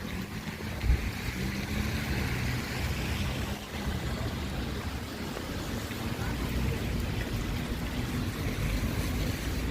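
Wind buffeting the microphone over steady traffic hiss and a vehicle engine running on a wet street. There is a single sharp thump about a second in.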